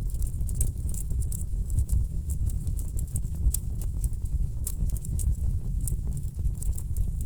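Wood fire in a fireplace crackling, with frequent irregular sharp pops and snaps over a steady low rumble of burning logs.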